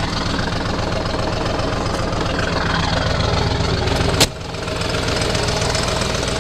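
Ford 7.3 Power Stroke turbo-diesel V8 idling with a steady, even knock. A single sharp clack comes about four seconds in.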